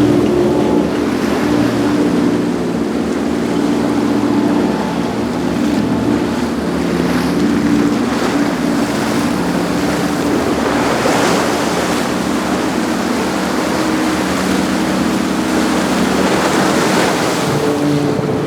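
Sunseeker Portofino 35 motor yacht's engines running at a steady hum as it cruises, over rushing water and waves, with wind on the microphone. The water noise swells twice, about ten and sixteen seconds in.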